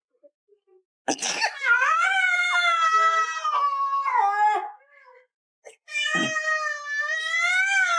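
A cat giving two long, drawn-out meows that waver in pitch. The first starts about a second in and lasts over three seconds; the second starts about six seconds in.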